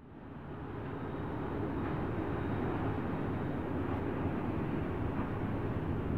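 Steady rumble of a freight train, fading in over about a second and then holding level.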